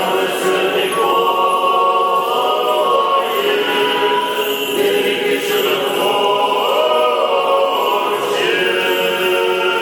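Orthodox church choir singing liturgical chant unaccompanied, several voices holding long sustained chords that shift slowly in pitch.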